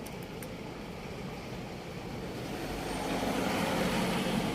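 A motor vehicle passing on the street, its engine and road noise growing louder over the last couple of seconds.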